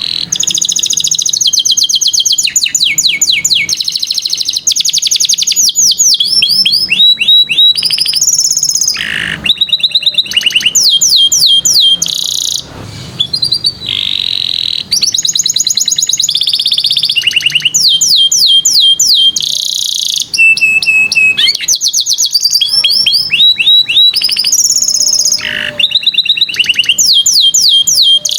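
Domestic canary singing a long song of fast trills and rapid runs of repeated falling notes, changing phrase every second or two with only brief pauses.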